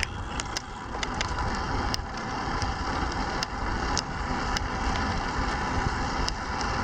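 Wind rushing over the microphone and tyre rumble from a bicycle riding along a country road, with scattered light clicks.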